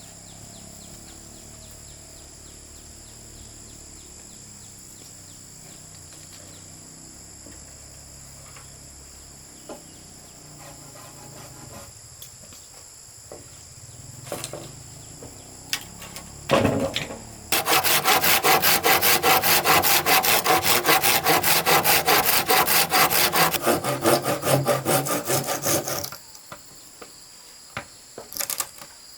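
A hand saw cutting with rapid, even strokes for about eight seconds in the second half, after a few scattered knocks. Insects buzz steadily in the background.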